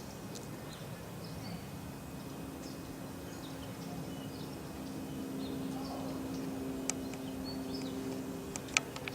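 Quiet background with a steady low hum, rising a little in level, and faint scattered high chirps, broken by a couple of sharp clicks near the end.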